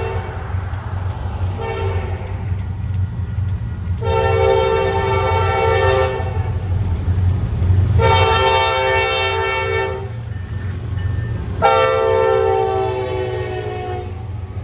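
Norfolk Southern 4000 diesel locomotive passing at track speed, its multi-chime air horn sounding a short blast and then three long blasts over the steady rumble of the engine. The last blast drops slightly in pitch as the locomotive goes by.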